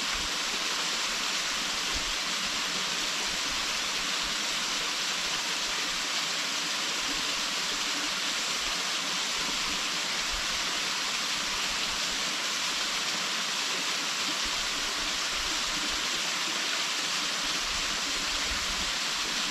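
Waterfall: steady, even rush of falling water, unbroken throughout, its energy mostly in the hiss range.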